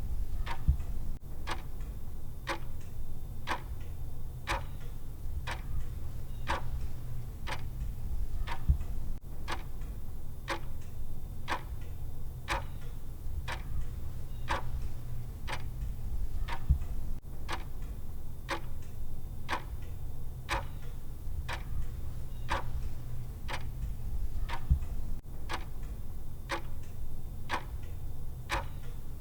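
Countdown timer's clock tick sound: a sharp tick about once a second, even and unbroken, over a steady low hum.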